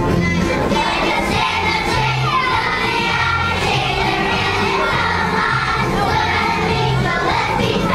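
A group of young children singing together over recorded backing music with a steady bass line.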